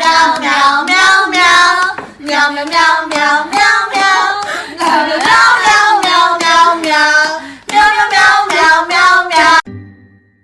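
A high voice singing in short rhythmic syllables with a wavering pitch, breaking off suddenly near the end.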